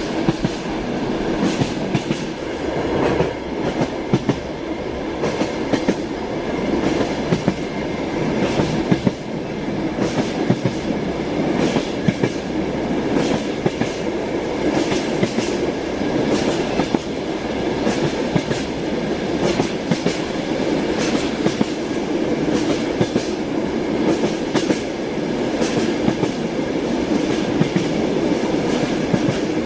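Passenger train on the move, heard from inside a carriage: a steady rumble of running with the wheels clicking over rail joints again and again.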